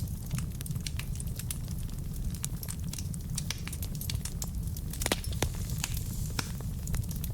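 Wood fire burning in a fireplace: a steady low rumble of the flames with irregular crackles and sharp pops from the burning logs, a few louder pops about five and six seconds in.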